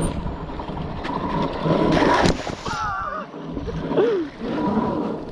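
Mini bike engine running as it ploughs through a muddy water hole, with muddy water splashing and sloshing, loudest about two seconds in.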